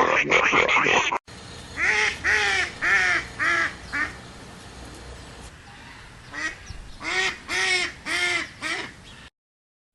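A fowl-like bird calling in short, arched calls: a quick run of four about two seconds in, then five more near the end. In the first second a different animal sound ends abruptly.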